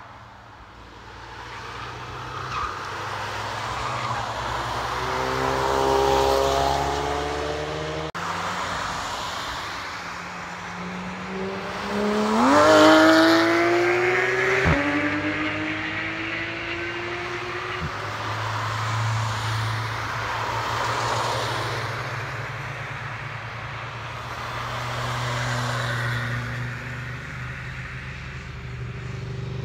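Cars passing one after another on a race circuit, engines running hard: one engine note falls in pitch as it goes by about six seconds in, and the loudest climbs in pitch about 12 to 13 seconds in before breaking off suddenly near 15 seconds, as at a gearshift. A steady low engine hum runs underneath.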